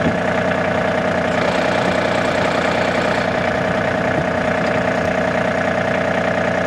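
A 2019 John Deere 3025E tractor's three-cylinder Yanmar diesel engine running steadily, at an even speed throughout.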